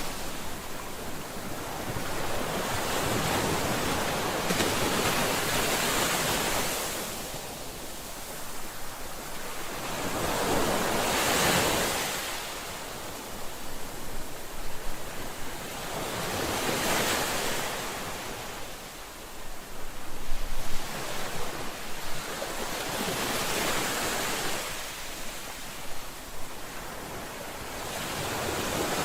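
Ocean waves breaking and washing on a shore, the surf swelling and ebbing in repeated surges roughly every five to six seconds.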